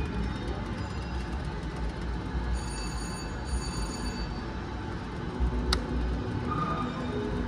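Casino floor din of machines and crowd, with a cluster of electronic slot-machine tones a few seconds in and a single sharp click near the end.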